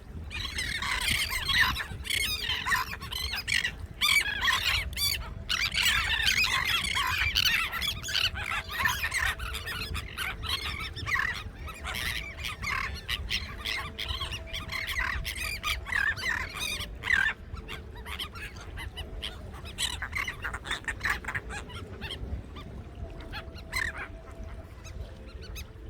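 A large flock of beach birds calling over one another in a dense chatter of squawks, busiest in the first half and thinning out toward the end, over a steady low rumble.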